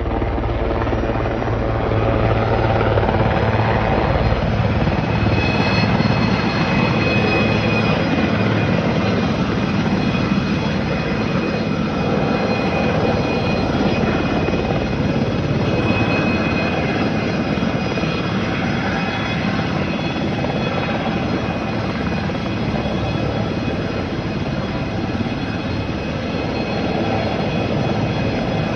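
Firefighting helicopter running close by: steady rapid rotor chop with a high turbine whine over it.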